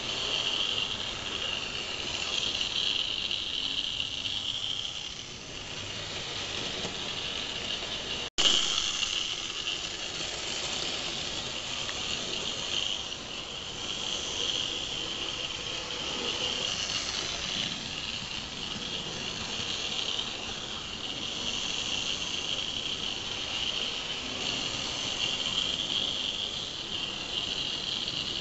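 Model railway tank locomotive with a small can-type electric motor running along the track, giving a steady high-pitched whine over wheel-on-rail noise that swells and fades a little. There is a brief dropout about eight seconds in.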